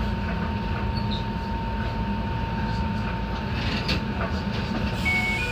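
Enoshima Electric Railway (Enoden) train running, heard from inside the car: a steady low rumble with a thin steady whine over it. Near the end a two-tone electronic beeping starts.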